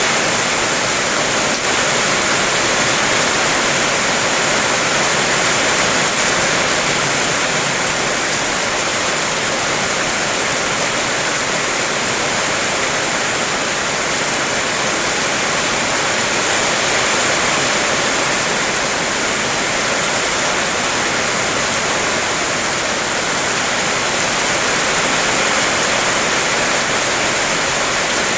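Heavy rain falling steadily: a dense, even hiss with no distinct drops or breaks.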